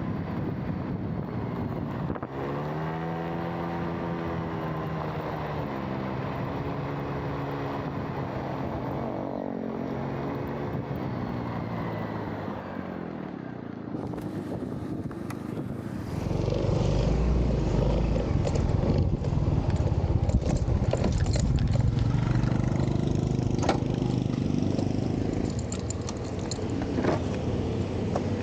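Motorbike engine running on the move, with road and wind noise; the engine note rises and falls in the first half, and the sound gets louder and rougher about sixteen seconds in.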